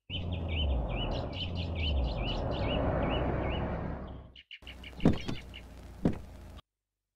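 A small bird chirps over and over, a short rising call about four or five times a second, over a steady rushing background noise. Later come two sharp knocks about a second apart, and the sound cuts off shortly before the end.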